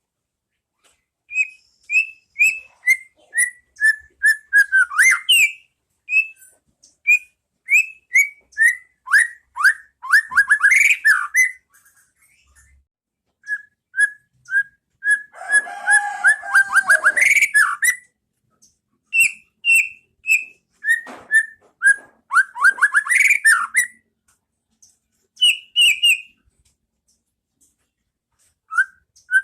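White-rumped shama singing: phrases of clear, loud whistled notes, many falling in pitch, broken by short pauses, with a denser, harsher run of notes midway.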